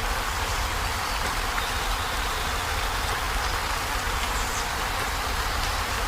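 Heavy rain falling steadily on a corrugated zinc roof: an even hiss of drops with a low rumble beneath.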